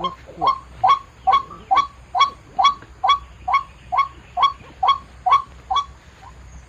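White-breasted waterhen's 'wak' call repeated about twice a second, some fourteen times in an even rhythm, the last one fainter: the call being used to lure waterhens to the snares.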